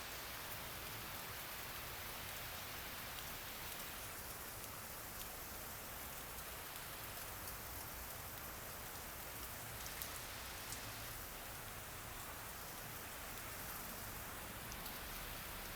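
Steady rain falling, with scattered drops pattering on surfaces.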